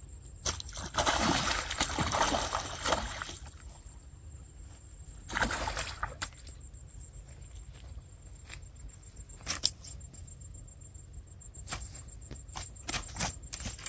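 Water splashing and sloshing in two bursts: a long one about a second in and a shorter one around five seconds in, followed by scattered sharp taps.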